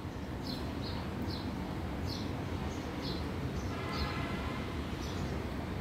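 A small bird chirping repeatedly, short high chirps about twice a second, over a steady low background rumble.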